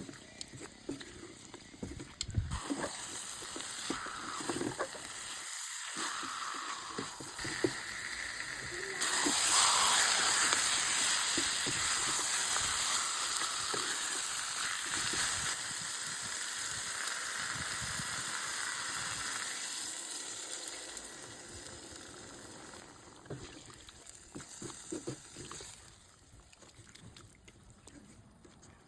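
Chicken curry frying in hot oil in a pan, a steady sizzle with scattered knocks and scrapes of a stirring spoon. The sizzle turns much louder about nine seconds in, then slowly dies away over the last few seconds.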